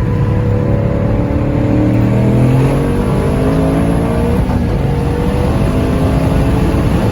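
Twin-turbocharged Ford Mustang Boss 302 V8 running under way. Its pitch climbs slowly, drops a little past halfway through, then holds steady.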